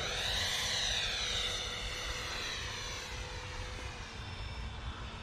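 70mm Freewing electric ducted fan on a 4S battery, driving a foam RC jet in flight. Its rushing whine sweeps down in pitch and fades as the model flies away.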